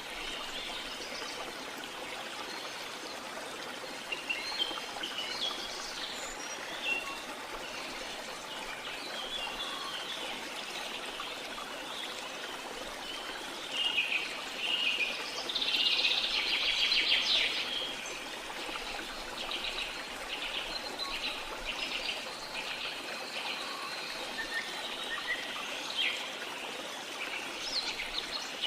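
Rainforest ambience: a steady wash of falling water with birds chirping and calling over it, building to a louder run of rapid, repeated calls about halfway through.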